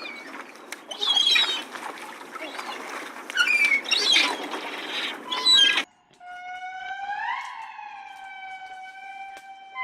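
Chirping bird-like calls over a noisy outdoor background. These cut off abruptly about six seconds in, and a long, clear, high-pitched animal call follows that rises and then holds for a few seconds; a second call begins near the end.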